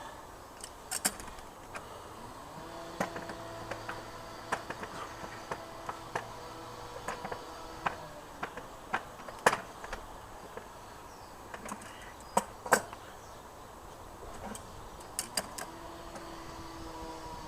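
Scattered sharp metal clicks and knocks of pliers working at a motorcycle fork's threaded top cap, over a faint steady hum.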